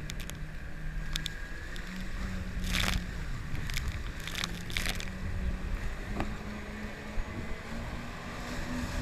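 Jet ski engine running, its pitch shifting up and down, over low wind and water rumble, with a few short hissing bursts about three to five seconds in.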